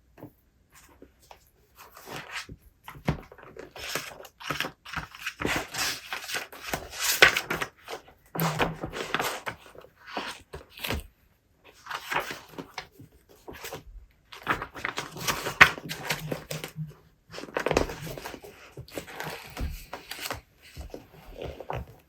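Irregular rustling and crinkling, like paper or packaging being handled, with a few soft thumps.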